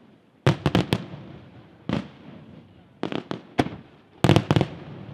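Aerial firework shells bursting: sharp bangs in quick clusters, four together about half a second in, a single one near two seconds, another group around three seconds and three more near the end, each trailing off.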